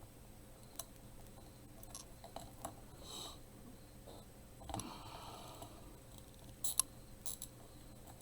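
Faint scattered clicks and taps with a few short rustles: plastic craft pieces being handled as ties are threaded through small holes in plastic candy trays.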